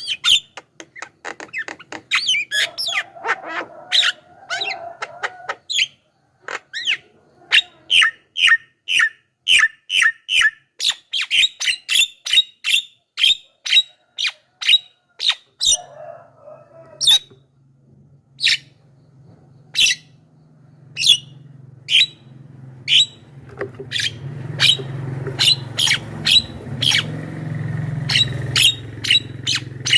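Javan myna giving short, sharp, harsh calls over and over, about two a second. From about halfway a low steady hum comes in underneath and grows louder near the end.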